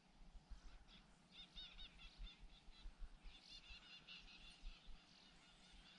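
Faint bird calls: two quick runs of repeated high chirps, a little after a second in and again past the three-second mark, over a quiet open-air background.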